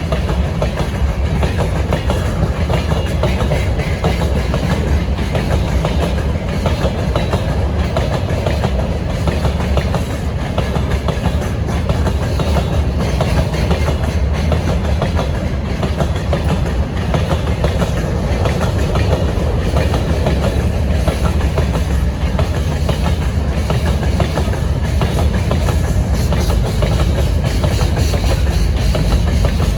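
Train wagons rolling past with a steady clickety-clack of wheels over the rail joints and a heavy low rumble.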